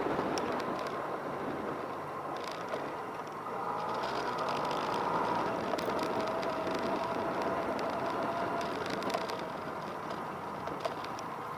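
Motorcycle engines running at a distance: a steady drone with a faint held whine.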